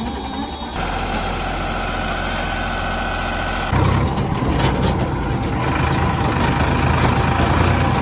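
Heavy vehicle engine running steadily, stepping up and getting louder about four seconds in.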